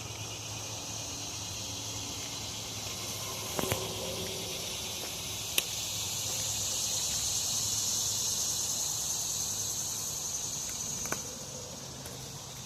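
Outdoor insect chorus: a steady high buzzing drone that swells to its loudest about two-thirds of the way through, then eases off. A few sharp clicks sound over it.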